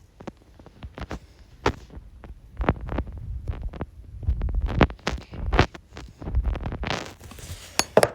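Knee hockey with plastic mini sticks: a quick run of sharp clacks and knocks from sticks and ball, mixed with dull thumps on the floor, and a short scraping rush about seven seconds in.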